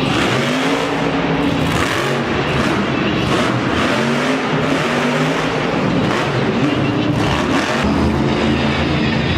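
Monster truck engine revving repeatedly, its pitch rising and falling several times over a loud running noise.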